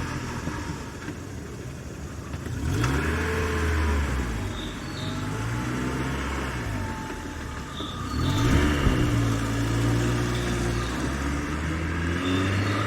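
Recorded car engine sound effect playing back: the engine runs and revs up twice, about three seconds in and again about eight seconds in.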